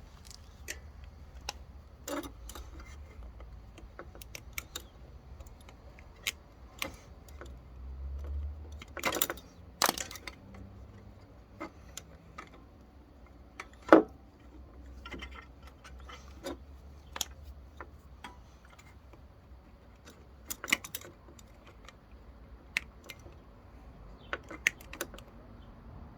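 Scattered metallic clicks and clinks of hand tools and small mower parts being handled during work on the fuel line and carburetor, with a few louder knocks, the sharpest about 14 seconds in.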